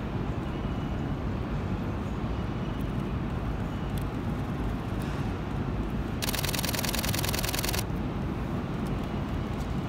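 Steady low rumble of an approaching JR limited express electric train. About six seconds in, a camera shutter fires a rapid burst of clicks lasting about a second and a half.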